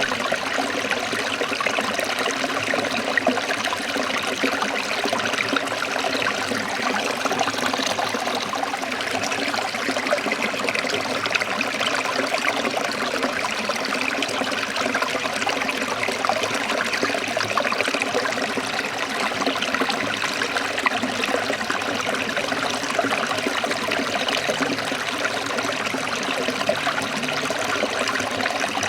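Forest stream trickling and babbling over rocks, a steady, unbroken rush of running water.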